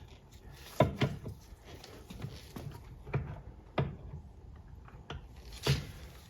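Light knocks and clacks of parts and tools being handled on a workbench, about five sharper ones spread irregularly with faint clicks between.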